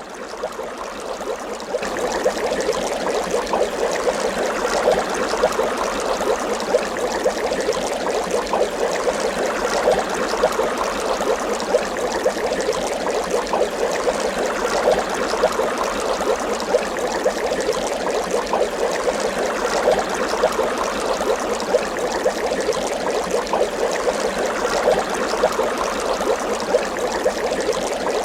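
Water bubbling continuously, a dense run of small bubble pops that builds up over the first couple of seconds and then holds steady.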